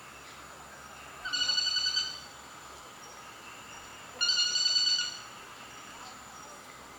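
A bird calls twice, about three seconds apart. Each call is a loud, rapid, rattling trill just under a second long, heard over a steady thin high-pitched tone in the background.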